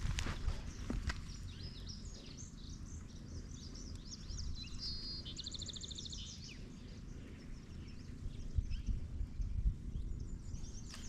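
Birds chirping and calling, with one rapid trill about halfway, over a low steady rumble of wind. A few short knocks near the start and near the end.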